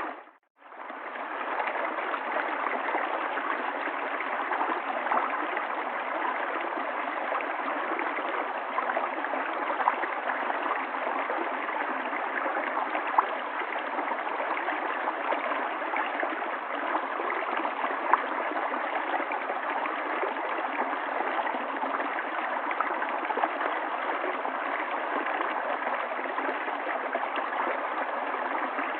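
River water flowing and gurgling in a steady rush, with small splashes here and there. The sound drops out briefly at the very start and fades back in within about a second.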